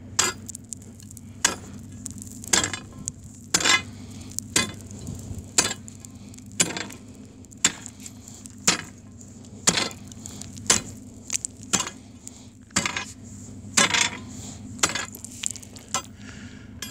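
Footsteps crunching on ice, one step about every second at a steady walking pace, over a steady low hum.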